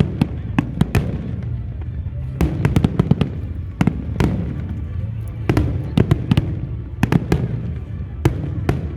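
A fireworks display going off: sharp bangs in quick clusters of two to four, coming every second or so, over a steady low rumble of further bursts.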